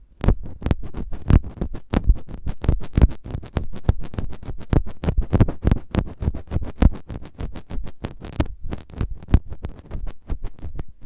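Close-miked ASMR trigger: rapid, irregular scratching and crackling strokes on the microphone, several a second, with a brief pause about three-quarters of the way through.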